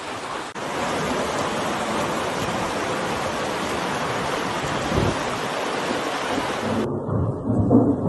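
Heavy storm downpour: a dense, steady hiss of rain or hail pouring down. About seven seconds in it cuts suddenly to a lower rumbling storm sound.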